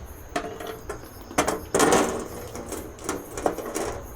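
Metal clinks and knocks from a charcoal barbecue's grill being handled and set in place, with a longer clatter about two seconds in.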